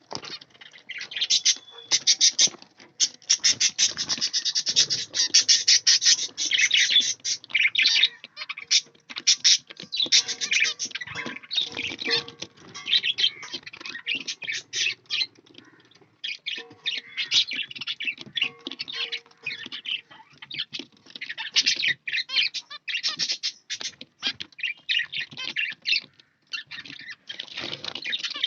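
A flock of caged budgerigars and finches chirping and chattering, a dense stream of rapid high calls with no pause.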